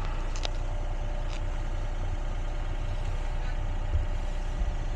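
Excavator engine idling steadily, an even low running sound.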